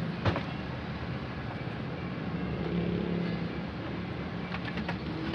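A car engine running steadily, with a low hum, and one sharp click about a third of a second in.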